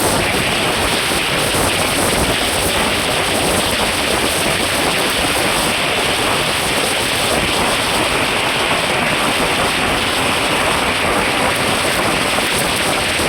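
Steady, loud rushing noise from a moving vehicle: road and wind noise on the microphone, with no distinct engine note or knocks.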